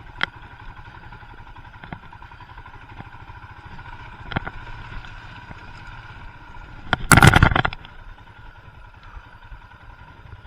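Royal Enfield Himalayan's single-cylinder engine running at low revs on a muddy track, with sharp knocks from the bike over the ruts. About seven seconds in there is a loud burst of noise lasting under a second.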